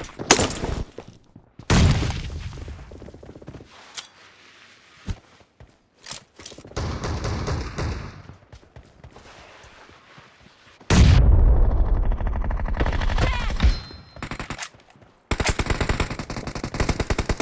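Video game gunfire: scattered single shots, then a loud heavy bang with a long low rumble about eleven seconds in, then rapid automatic fire near the end.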